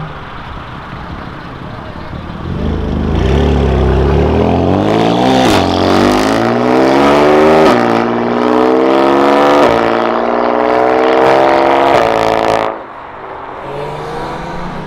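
BMW M4's twin-turbo inline-six accelerating hard away, its pitch climbing through several quick upshifts. The sound cuts off abruptly near the end, leaving a quieter engine.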